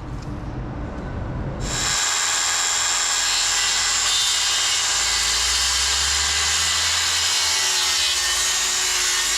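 A power saw cutting wood. It starts under load about a second and a half in and runs steadily with a high motor whine for about eight seconds, stopping near the end.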